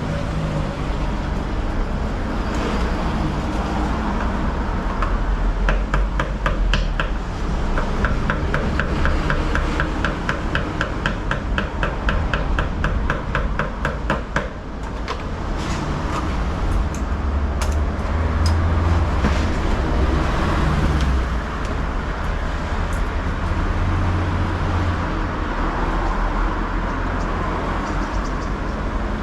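Steady low rumble of road traffic. For about nine seconds in the middle, an even run of sharp mechanical ticks, three to four a second, then a few scattered clicks.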